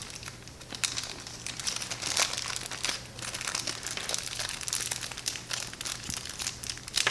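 Plastic packaging crinkling as it is handled, with irregular small crackles and clicks of parts being picked up, over a faint low steady hum.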